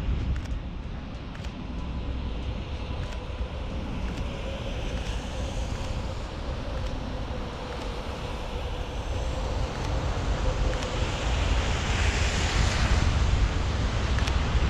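Train going by, a steady rushing rumble with a faint whine, swelling louder toward the end, with wind buffeting the microphone.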